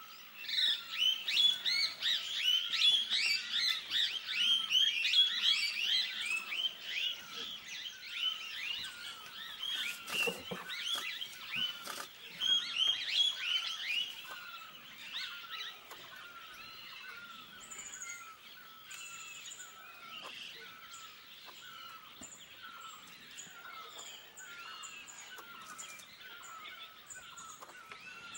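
Many birds calling at once: a dense chorus of overlapping chirps and whistles that thins, about halfway through, to quieter repeated calls. There is a single knock about ten seconds in.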